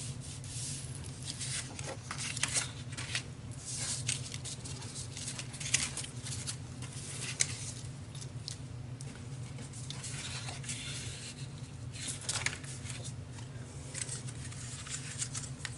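Paper and cardstock being handled on a work table: scattered rustles and light taps, over a steady low hum.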